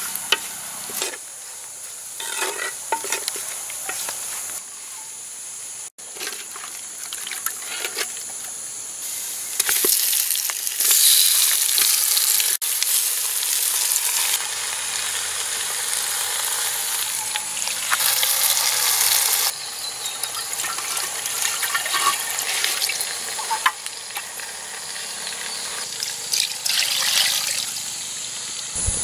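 Spices and leaves frying in oil in a clay pot, sizzling, while a wooden spoon scrapes and stirs against the pot with many short strokes.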